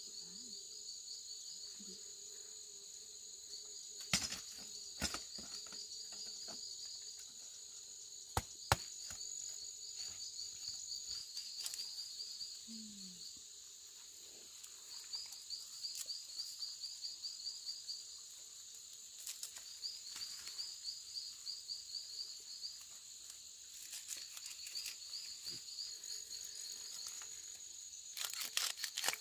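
Insects chirping in rapid pulsed trills over a steady high buzz, with a few sharp clicks or knocks, a pair about 8 seconds in and a cluster near the end.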